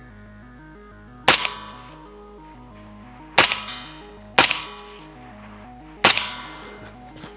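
Four suppressed rifle shots from a semi-automatic precision rifle, unevenly spaced, each sharp crack followed by a short echoing tail. Background music plays underneath.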